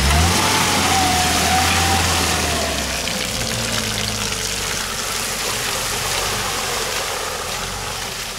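Stock Lada Niva's engine revving as it drives through deep mud ruts: the engine note climbs at the start, holds for about three seconds, then eases off as the car pulls away. A steady hiss of tyres working through wet mud runs underneath.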